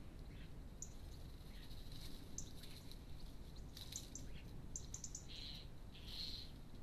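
Small birds chirping in short, high notes scattered through, several in quick succession around the middle, over a low steady background rumble.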